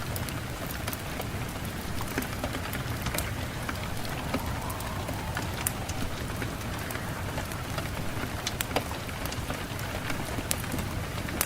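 Steady rain falling on a surface, a constant hiss dotted with many sharp, separate drop hits.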